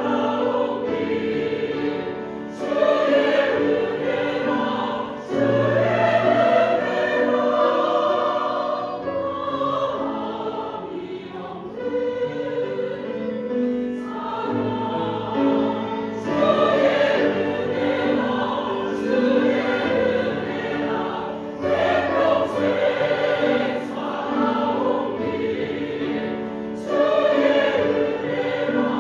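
Choir singing a Christian praise song in long held phrases, with a softer passage midway.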